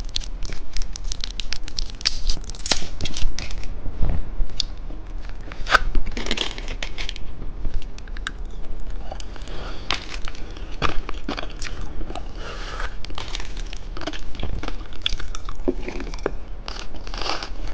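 Plastic lollipop wrapper being torn open and crinkled by hand: an irregular run of sharp crackles and rustles.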